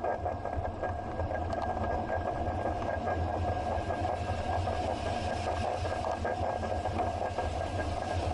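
Bicycle in motion heard through a bike-mounted action camera: steady road and tyre rumble with a thin, constant hum and some rattling, and a quick regular ticking in the first second or so.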